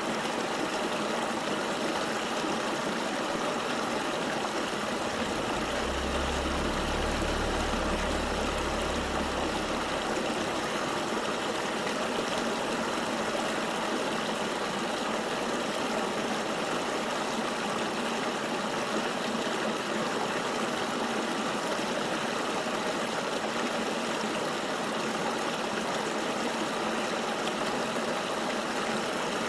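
Flowing river water, a steady rushing wash with no change in level. A low rumble joins in about five seconds in and stops about four seconds later.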